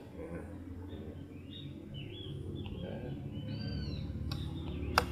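Bird song: short arching chirps repeated in phrases, over a steady low hum. A single sharp click near the end.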